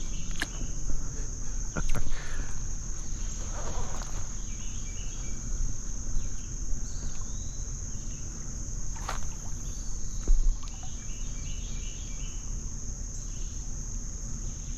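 Steady high-pitched drone of insects, over a low rumble, with a few sharp clicks: one just after the start, one about two seconds in and one about nine seconds in.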